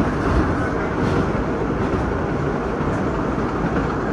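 Vintage New York City subway nostalgia train running along the track, heard from its rear cab as a steady rumble of wheels on rail.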